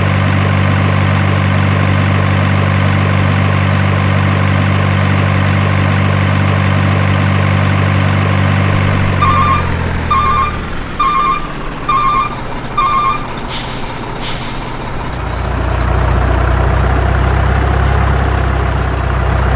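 Truck sounds: a diesel-like engine idling steadily, then winding down. Five reversing beeps follow, about one a second, then two short air-brake hisses, and the engine comes back in at a lower, deeper note.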